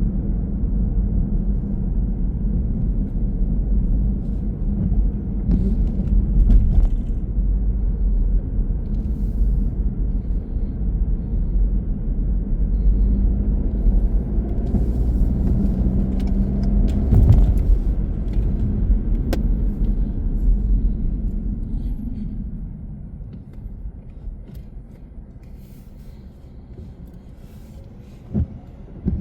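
Car driving with steady low road and engine rumble, which dies down about three-quarters of the way through as the car slows. A brief louder swell with a knock comes a little past the middle, and a couple of sharp knocks come near the end.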